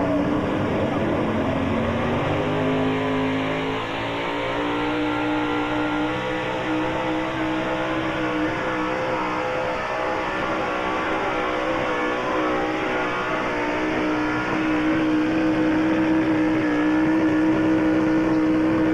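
Gas pulling truck's engine at high revs under full load during a pull: the pitch climbs over the first few seconds, holds steady, then drops off sharply right at the end as the driver lets off.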